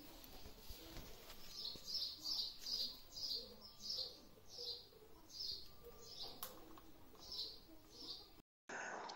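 Small bird chirping faintly, a run of short high notes repeated about twice a second; the sound cuts off abruptly near the end.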